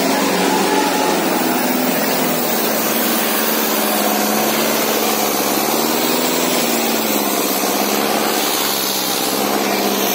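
Sonalika 750 DI tractor's diesel engine running under load, steady at first, then revving up about halfway through and easing back down.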